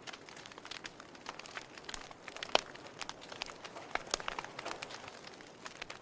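Wood fire crackling in a fireplace: irregular pops and snaps over a soft hiss, with one sharper pop about two and a half seconds in.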